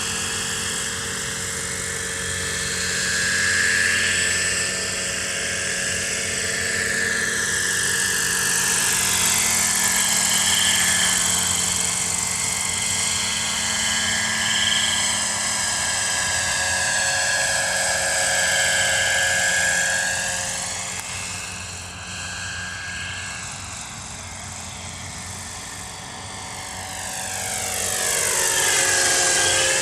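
Kalt Baron Alpha RC helicopter with a four-stroke model engine running and flying, its engine and rotor note sliding down and back up in pitch several times. It quietens for a few seconds past the middle and is loudest near the end.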